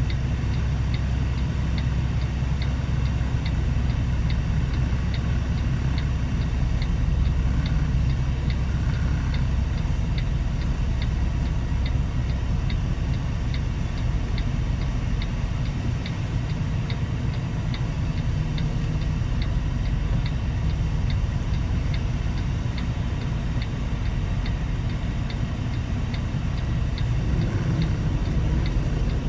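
Semi truck's engine running with a steady low rumble, heard from inside the cab, with a regular light ticking about once every 0.7 seconds throughout.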